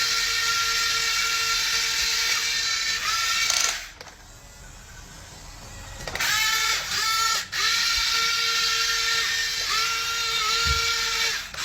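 A small electric motor whining at a steady pitch. It stops about four seconds in, starts again with short rising sweeps about two seconds later, and dips briefly in pitch now and then.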